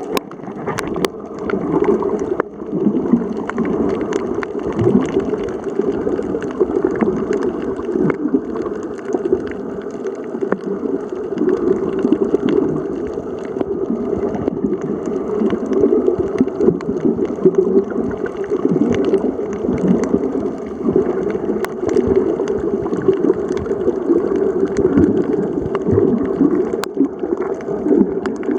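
Muffled underwater water noise: a steady, churning gurgle of water moving and bubbling around a submerged camera during a snorkel, with a few faint clicks.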